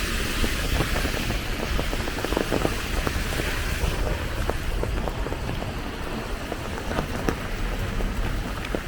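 Steady rain falling, with many sharp drops ticking close by and a low rumble underneath. A hiss of traffic on the wet road fades out about four seconds in.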